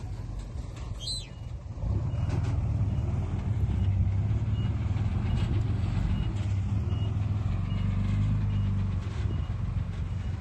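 Diesel engine of heavy earthmoving equipment running under load, getting louder about two seconds in and holding steady.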